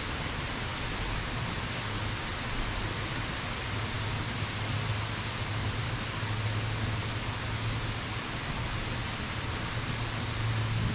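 Steady rain falling, an even continuous hiss, with a low hum underneath that swells and fades.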